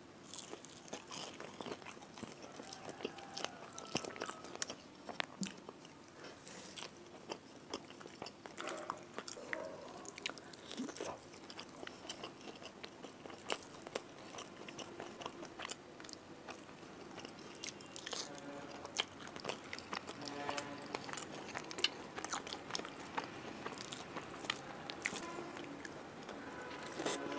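Close-miked eating sounds: biting, crunching and chewing fried fish and rice eaten by hand, with many sharp wet mouth clicks.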